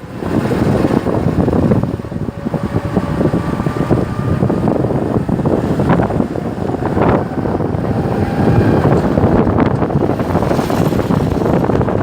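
Strong wind blowing across the microphone: a loud, continuous buffeting rush that surges and eases in gusts.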